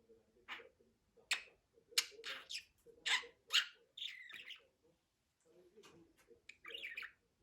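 Budgerigar chirping and warbling: a string of short, sharp chirps with one longer warbled note about four seconds in.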